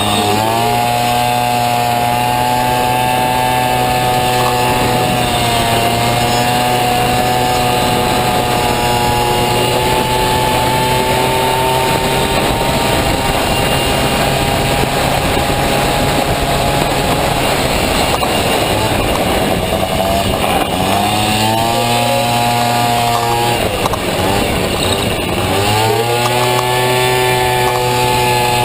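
Honda Dio two-stroke scooter engine in a Honda Motocompo, revving hard at a high, steady pitch. Several times the revs drop off briefly and climb again as the throttle comes back on.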